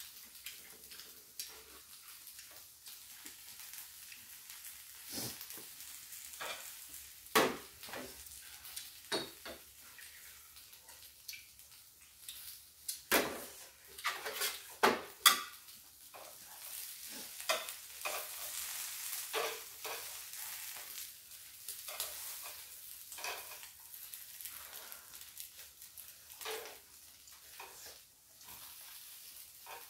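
Pajeon frying on an electric griddle, a steady sizzle, with scattered sharp clicks of chopsticks on the griddle and dishes and close eating noises, thickest a little after the middle.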